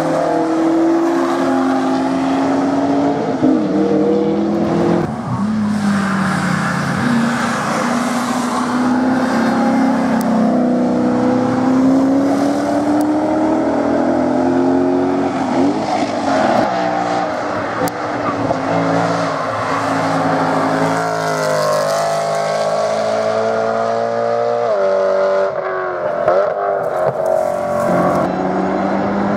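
Sports car engines passing at speed one after another, revving up and down through gear changes, the pitch rising and falling repeatedly.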